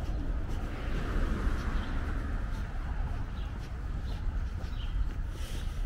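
Small birds chirping now and then over a steady low rumble of outdoor street ambience.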